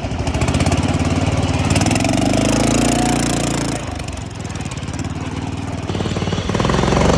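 Ride-on mower engine running hard with a rapid firing beat, its pitch rising, dropping off about four seconds in, then picking up again near the end.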